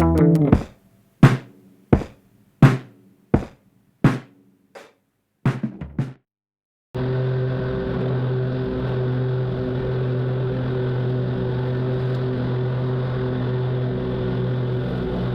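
A few struck musical notes, each dying away, over the first six seconds; then, after a brief silence, a zero-turn lawn mower's engine starts being heard and runs at a steady speed.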